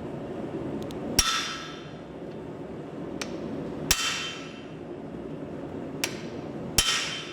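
Four heavy metal-on-metal blows driving an axe blade, used as a hot cut, into hot axe steel on the anvil, each ringing briefly, spaced a couple of seconds apart with the last two close together. A steady low rushing sound runs underneath.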